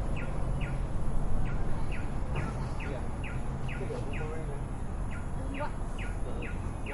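A bird calling in a repeated series of short, falling chirps, about two to three a second in runs with short pauses, over a steady low rumble of background noise.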